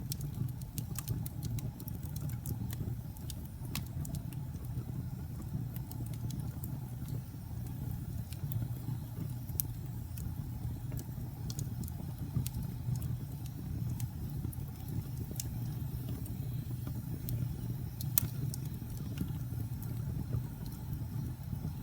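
Fire in a fireplace crackling, with scattered sharp pops over a steady low rumble; one louder pop comes about eighteen seconds in.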